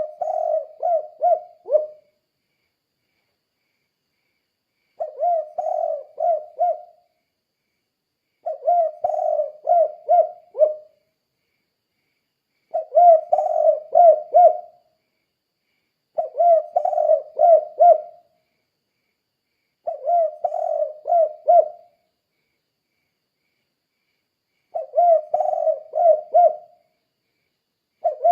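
Spotted dove (tekukur) cooing its 'kuk 2' song: phrases of four or five quick coos, each about two seconds long, repeated roughly every four seconds with silence between them.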